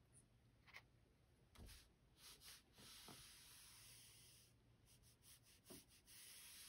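Near silence with a few faint, soft hissing rustles, the longest lasting about a second and a half in the middle.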